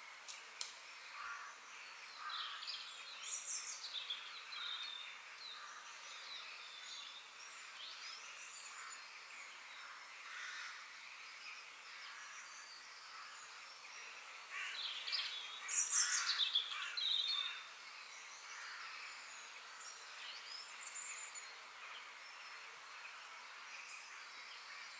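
Forest ambience: several songbirds chirping and trilling over a steady background hiss, with a louder flurry of calls about fifteen seconds in.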